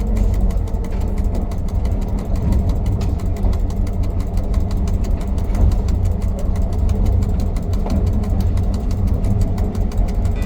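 Diesel-electric locomotive engine running steadily at low power during shunting, a heavy low rumble with a fine regular ticking over it.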